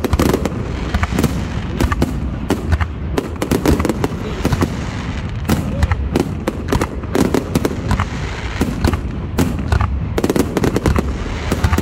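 A fireworks display: a ground-fired multi-shot battery sends up shell after shell, making a continuous irregular barrage of bangs several times a second as the shells launch and burst.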